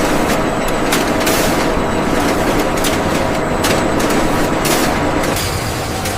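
Factory machinery running with a steady mechanical din, broken by short hisses at irregular intervals; it eases off slightly about five seconds in.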